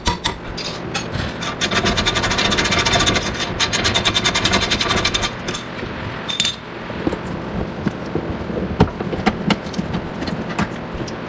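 A wrench working on the brake caliper bracket bolts: a run of rapid, even clicks for about four seconds, followed by scattered metallic clicks and clinks.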